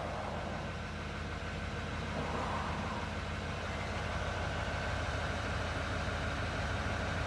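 Heavy truck engine running steadily with a low hum. A faint steady whine joins in about four seconds in.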